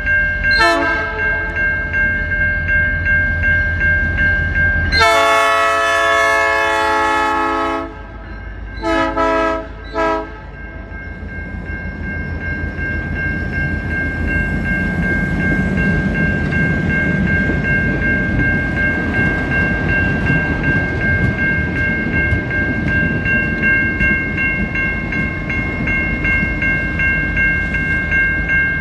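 Alaska Railroad Hurricane Turn train sounding its horn: a short blast, a long blast of about three seconds, then two quick short blasts. Through it all the train rumbles along with a steady high ringing tone, and the rumble grows louder in the second half.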